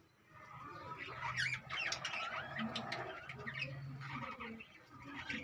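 Pet budgerigars chirping and chattering, with short, sharp calls that slide up and down in pitch, starting about a second in and thinning out towards the end.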